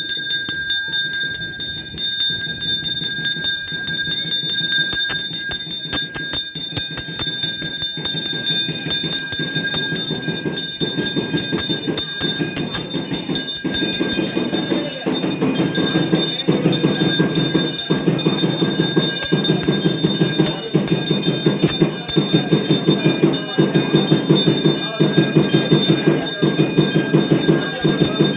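Temple bells ringing continuously, a bright metallic ring struck in quick repeated strokes. A lower rhythmic pulsing joins in and grows louder from about halfway.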